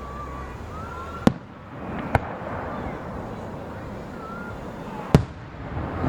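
Aerial fireworks shells bursting: three sharp bangs, the loudest near the end, over crowd chatter and a few short whistles.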